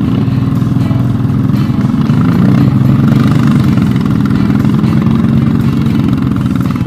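Motorcycle engine running steadily with a low, fast firing beat, growing a little louder over the first couple of seconds.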